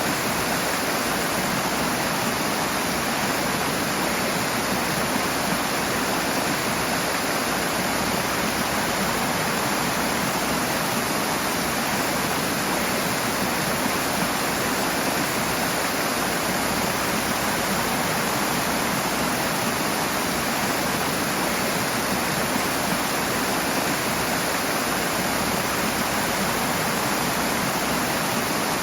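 Rushing water, a steady, even rush of fast-flowing water with no breaks or changes.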